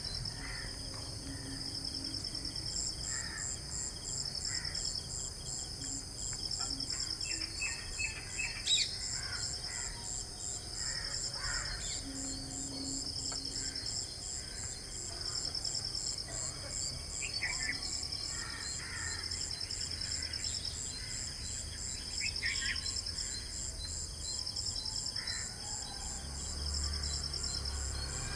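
Insects trilling in high, evenly pulsed trains, with scattered short bird chirps and calls over them.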